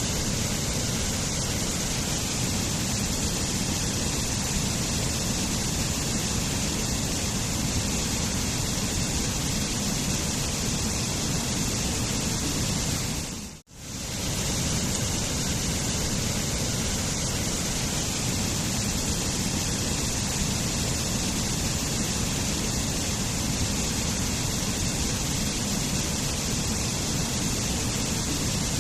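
Waterfall: a steady rush of falling water. About halfway through it briefly fades out to near silence and swells straight back.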